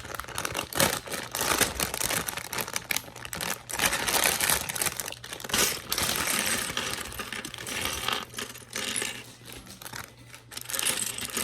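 Plastic bag of Lego pieces crinkling as it is opened and handled, with the bricks inside clicking and clattering.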